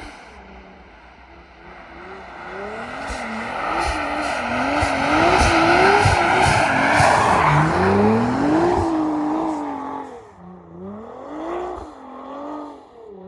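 A car driven hard, its engine revs repeatedly climbing and dropping as it is worked through the throttle and gears. A broad rush of noise swells to its loudest in the middle and fades away as the car comes closest and moves off.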